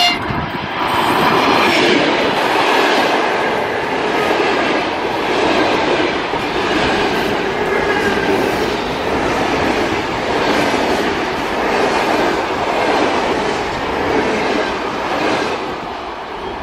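An electric train passing close by, its wheels running over the rails in a loud, steady rush with a gently swelling rhythm. It eases off near the end.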